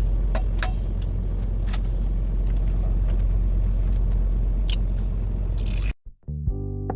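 Semi truck's engine idling, a steady low rumble heard inside the cab, with a few sharp clicks over it. About six seconds in it cuts off and background guitar music starts.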